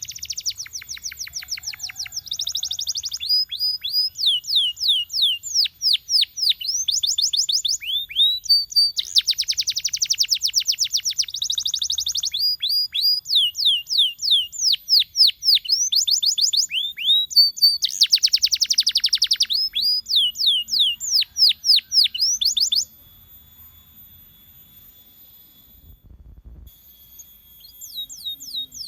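Domestic canary singing a long song of fast trills alternating with runs of repeated sweeping notes. The song breaks off about four-fifths of the way through.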